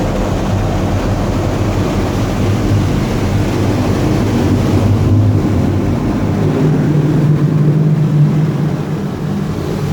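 High-pressure water jets of a touchless car wash spraying against a minivan's body, heard from inside the cabin: a steady, really loud rush with a low hum underneath. The hissing upper part of the rush eases about halfway through while the low hum grows.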